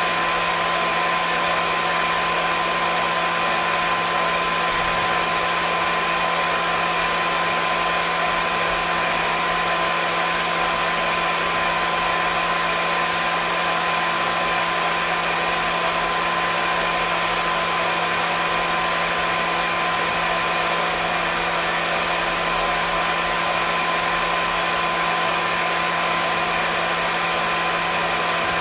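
Hair dryer running steadily: an even rushing blow of air with a constant motor hum and a high whine, never changing.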